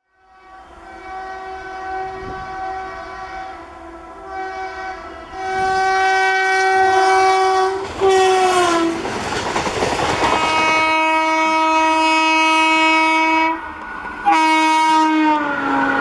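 Indian Railways WAP-4 electric locomotive's horn, a multi-note chord sounded in several blasts that grow louder as the train approaches. The pitch drops as the locomotive passes about eight seconds in, with the rush and clatter of the passing train, followed by two more long blasts, the last one falling in pitch.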